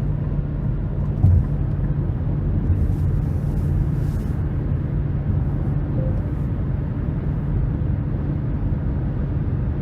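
Cabin noise of a 2023 Nissan Rogue with a turbocharged three-cylinder cruising at highway speed: a steady low drone of tyres, road and engine, with a brief thump about a second in.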